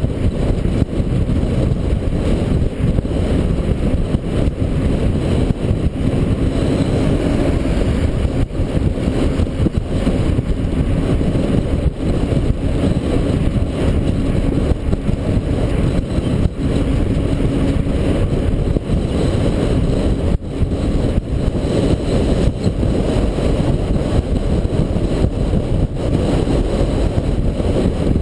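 International 4300 dump truck's diesel engine and drivetrain running steadily while the truck drives down the road, a heavy low rumble mixed with road and wind noise. A faint steady hum runs through the middle part.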